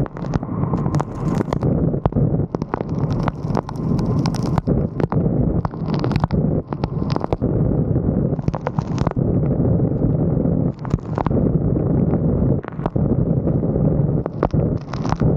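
Wind buffeting the microphone of a roof-mounted camera as a steady low rumble, with irregular sharp taps of raindrops striking the camera housing.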